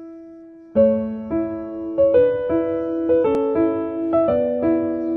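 Background music: a gentle piano melody, with a held note fading away before the playing picks up again about a second in.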